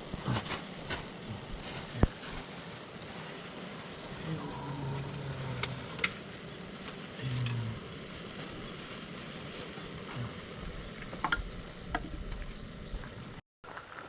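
Wood campfire crackling and sizzling, with scattered sharp pops. The sound drops out briefly near the end.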